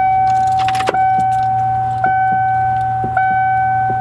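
Motorhome dashboard warning chime ringing steadily, one tone re-striking about once a second over a low steady hum. Keys jingle briefly about a second in.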